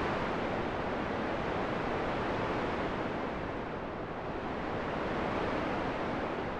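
Steady rushing wind that swells and eases slowly, dipping about midway and rising again near the end.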